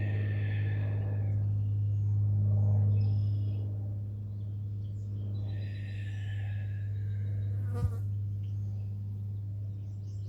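A steady low buzzing hum, with short spells of higher-pitched sound near the start and again about halfway through, and a single sharp click near the end.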